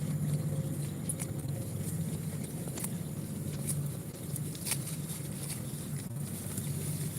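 Goat grazing: scattered short snaps and tearing clicks of grass being bitten off, over a steady low hum.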